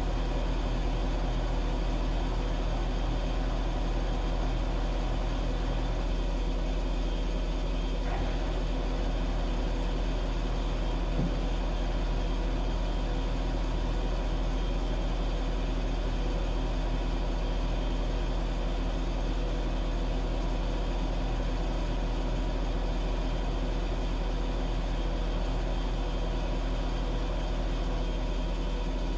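Washing machine running with a steady low hum from its motor and drum, and a faint tick or two partway through.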